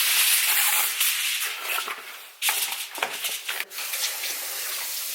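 Hissy handling noises with sudden breaks and clicks, then water running steadily from a tap from about four seconds in.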